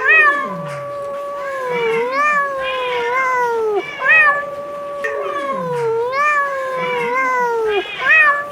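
A cat yowling: two long drawn-out wavering calls of about four seconds each, each with a short rising yelp at its start and another one near the end.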